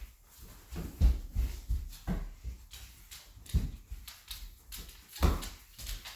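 A giant Alaskan malamute's paws thudding on a hard floor as it walks, with irregular heavy footfalls and clicks.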